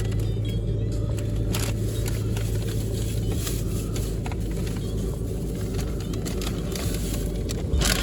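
Steady low hum and rumble heard from inside a car being carried through an automatic car wash tunnel, with a few short hissing bursts, the loudest near the end.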